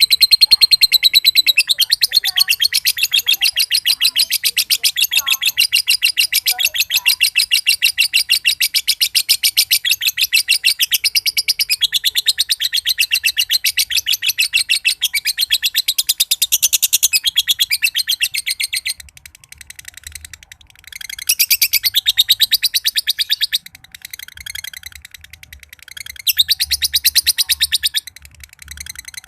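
Green (josan) lovebird giving its long "ngekek": a rapid, high-pitched rattling chatter. It runs unbroken for about nineteen seconds, breaks off, then comes back in two shorter bursts.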